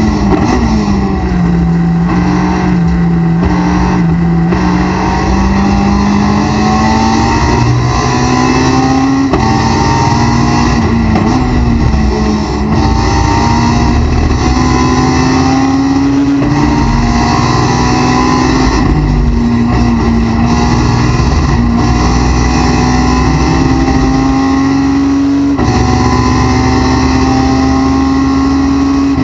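A 2005 Honda S2000's 2.2-litre four-cylinder engine at racing speed, heard from inside the cockpit. Its pitch falls near the start as the car brakes and downshifts for a corner, then climbs steadily under full throttle and drops back at each upshift, several times over.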